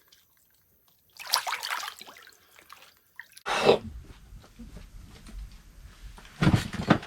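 Water splashing in an ice-fishing hole in three bursts, about a second, three and a half and six and a half seconds in, as a large walleye is released, with a low rumble between the later splashes.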